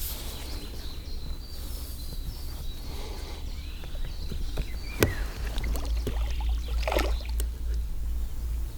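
Water splashing and lapping around a small boat while a hooked carp is played, over a steady low rumble. There is a sharp click about five seconds in and a brief splash about seven seconds in.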